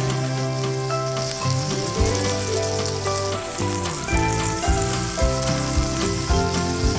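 Salmon fillet sizzling steadily as it fries in hot oil in a nonstick pan, over background music.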